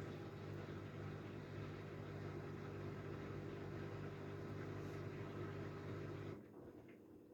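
Haier 7.5 kg washing machine running with a steady motor hum and a wash of noise, cutting off abruptly about six seconds in.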